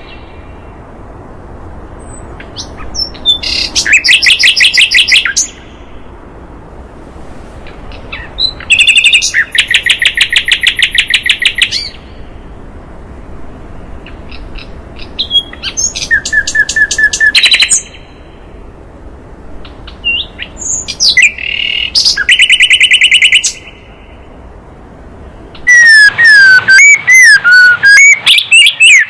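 Recorded songbird song of a sikatan londo flycatcher and a white-rumped shama (murai batu): four bursts of fast, evenly repeated high notes a few seconds apart, then near the end a louder, varied run of whistled notes that slide up and down in pitch.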